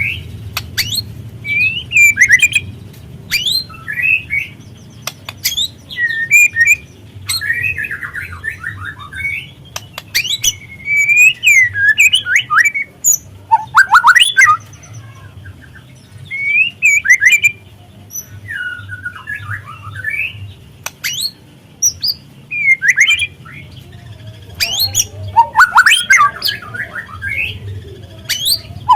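White-rumped shama (murai batu) calling in short, irregular bursts of chirps, harsh crackling notes and sharp clicks, over a faint low hum. This is lure audio meant to provoke a young shama into singing.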